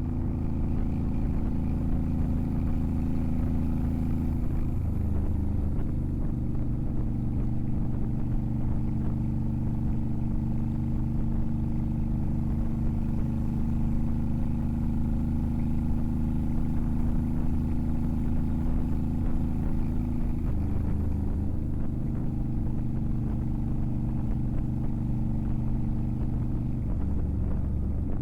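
Motorcycle engine running steadily under way, its pitch briefly shifting and settling again three times: about five seconds in, around twenty seconds in, and near the end.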